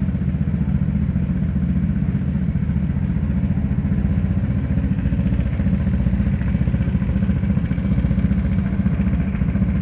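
Vespa GTS 300 scooter's single-cylinder four-stroke engine idling steadily.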